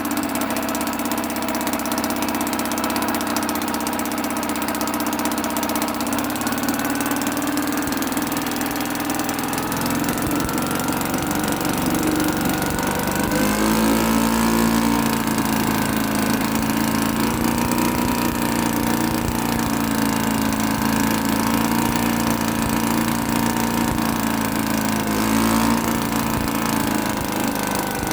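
1974 British Seagull 40 Plus Mark II outboard motor, a single-cylinder two-stroke, running steadily with a smooth purr. About halfway through, its pitch rises slightly as it speeds up a little, and it then holds there.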